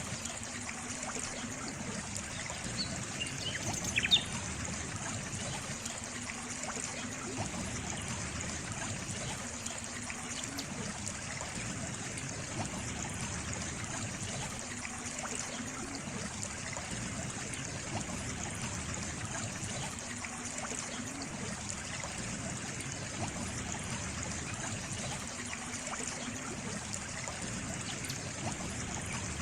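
Water trickling and running steadily, like a small stream, with a single short high chirp about four seconds in.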